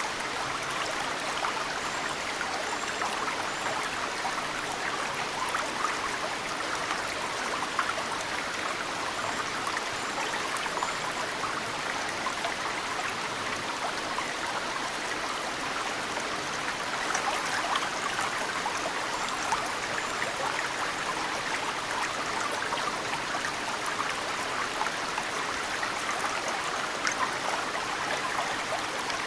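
Mountain stream flowing steadily, with snowmelt dripping into it and occasional brief louder splashes. A few faint high bird chirps come through now and then.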